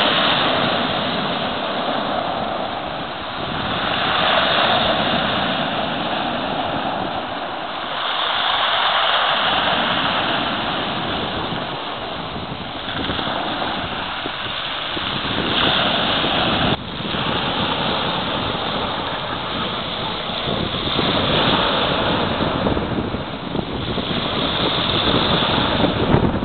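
Sea surf: waves breaking and washing up the shore, swelling and falling back every few seconds.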